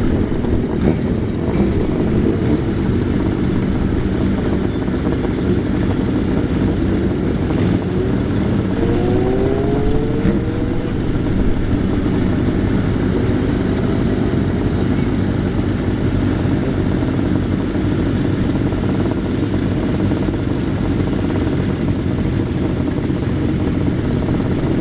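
Classic Japanese motorcycle engines running steadily close by, with a short rev rising in pitch about ten seconds in.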